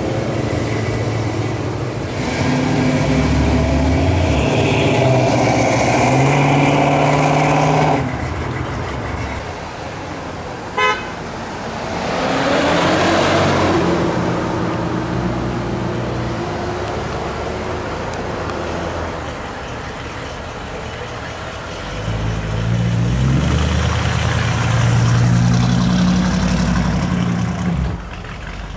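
Classic American cars driving past one after another, their engines running loudly: first a Plymouth Barracuda, later a 1964 Chevrolet Impala. A single short car-horn toot sounds about eleven seconds in.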